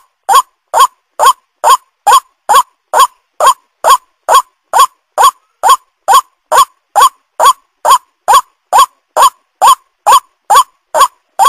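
White-breasted waterhen (ruak-ruak) calling: one short rising note repeated steadily, a little over two a second.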